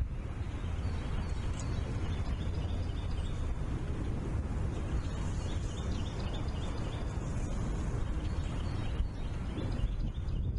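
Birds giving many short, high chirps over a steady low rumble of wind on an outdoor nest-camera microphone.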